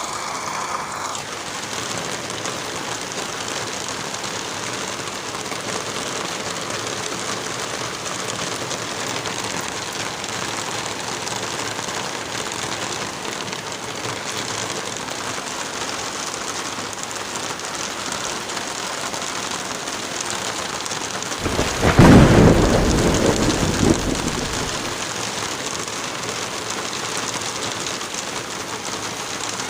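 Steady wind through trees with light rain falling. About twenty seconds in, a loud low rumble swells, peaks and dies away over about three seconds.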